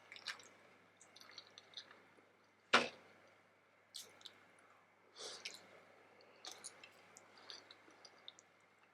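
Close-up wet chewing and lip-smacking of steamed vegetable momo being eaten, in scattered soft smacks and clicks. One sharper click, about three seconds in, is the loudest.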